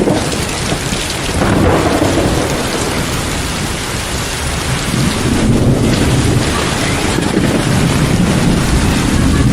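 Heavy rain pouring steadily, with low rolling thunder that swells about a second and a half in and again from about halfway through.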